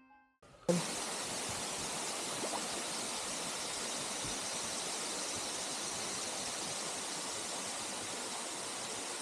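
Waterfall pouring into the river: a steady rush of falling water that starts abruptly under a second in.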